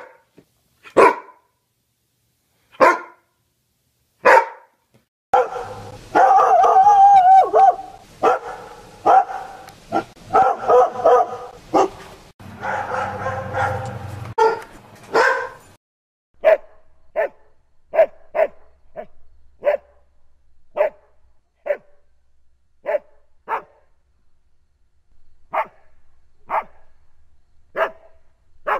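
Dog barking: a greyhound gives single barks about every second and a half, then a dense run of barks with wavering, drawn-out cries. About sixteen seconds in it changes to a border collie's short barks at roughly one per second.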